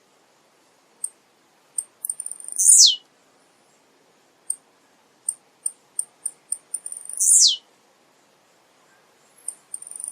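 Male blue-black grassquit (tiziu) singing: a few short, very high chips lead into a loud, sharp note sliding steeply down in pitch, the phrase repeated about every five seconds, twice here, with a third starting at the very end.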